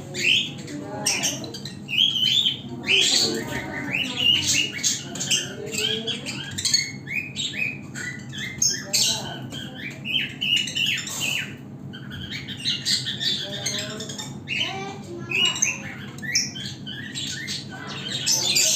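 African lovebirds squawking and chirping in rapid, overlapping short calls, with a steady low hum underneath.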